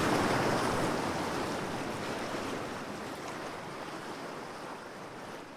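Ocean waves washing on a shore, an even rush of surf that fades out steadily.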